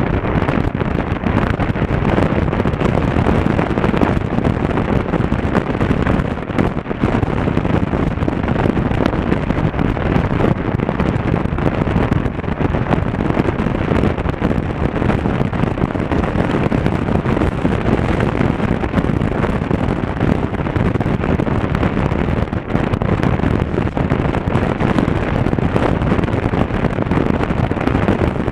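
Wind rushing over an action camera's microphone while riding a Honda Africa Twin CRF1000L motorcycle: a steady, loud rush with the motorcycle's engine and road noise beneath it.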